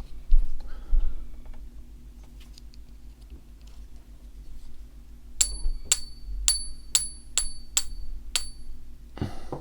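A 1 ounce silver trade dollar tapped about eight times in quick succession, each tap ringing briefly at two high, bell-like pitches: the coin is being struck so its ring can be checked for genuine silver.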